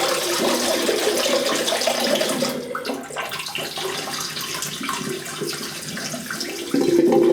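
Hot water running from a bathroom tap over a three-piece safety razor and its blade to warm them before shaving. The flow gets quieter about two and a half seconds in, with some splashing, and gets loud again near the end.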